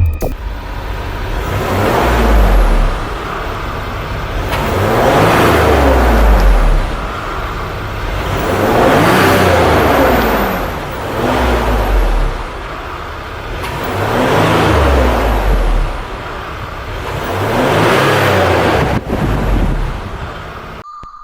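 Range Rover Autobiography LWB's engine revved repeatedly, about six times in a row, each rev rising in pitch and falling back. The sound cuts off suddenly near the end.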